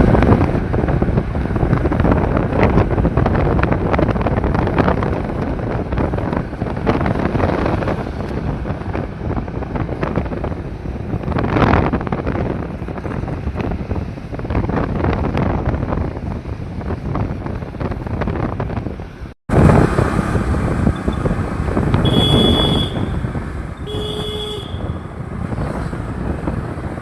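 Steady, loud vehicle rumble with wind buffeting the microphone; after a short break, two brief horn toots about two seconds apart.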